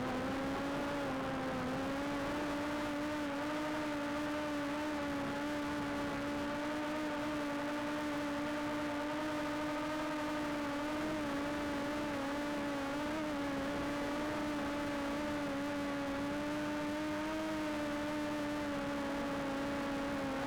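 DJI Air 2S quadcopter drone's propellers humming steadily: a buzzing tone with overtones that wavers slightly in pitch.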